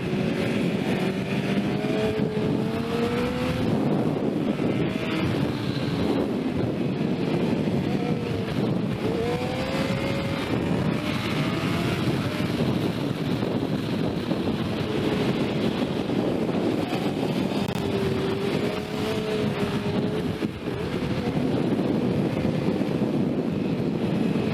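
Sport motorcycle engine at speed, its pitch rising and falling again and again as the rider opens and closes the throttle and changes gear, with steady wind rush over it.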